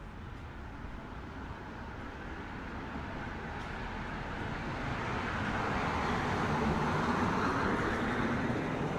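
A road vehicle approaching and passing on the street, its tyre and engine noise swelling gradually to a peak near the end before starting to fade.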